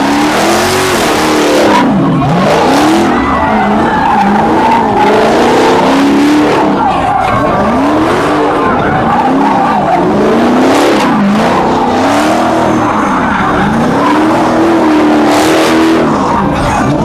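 Car engine revving up and down over and over, with tyres squealing and skidding, as at a car-meet burnout or donut session.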